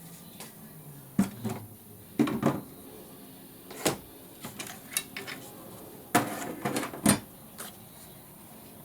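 Pieces of book page and craft supplies being handled and moved aside on a work table: scattered taps, knocks and short paper rustles, the loudest about a second in, around two seconds and twice near six and seven seconds.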